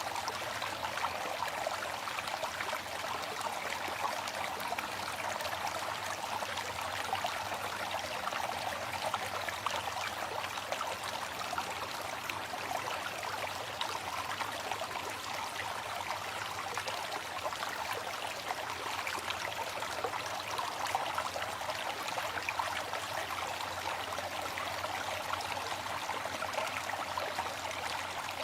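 Waterfall: water falling and splashing in a steady, unbroken rush, mostly in the mid and upper range with little low rumble.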